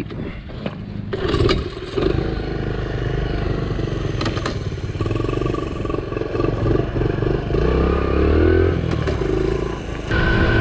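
Honda CT70's small single-cylinder four-stroke engine: a few clunks in the first two seconds, then the engine running steadily. Its pitch rises and falls with the throttle near the end as the bike moves off.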